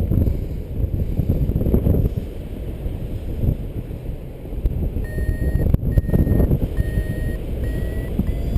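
Strong wind buffeting the microphone with a gusting low rumble. From about five seconds in, a paragliding variometer sounds a string of long beeps that edge up in pitch near the end, the signal of rising air.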